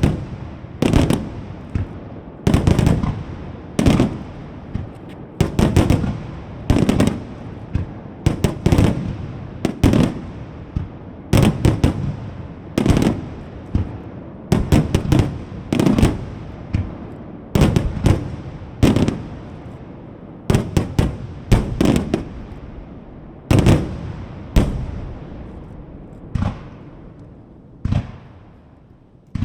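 Aerial firework shells of a starmine barrage bursting one after another, about one sharp bang a second and sometimes two in quick succession, each trailing off in a rolling echo. The bursts thin out near the end.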